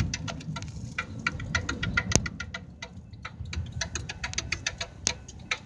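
Freight train rolling slowly through the yard: a steady low rumble with many sharp, irregular clicks and clanks from the cars' wheels and couplings.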